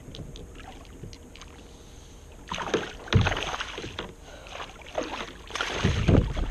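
Water splashing, with knocks and thumps against a kayak or small boat, as a hooked fish is fought at the surface. Two loud spells of splashing come about two and a half seconds in and again near the end, after a quieter start with light ticks.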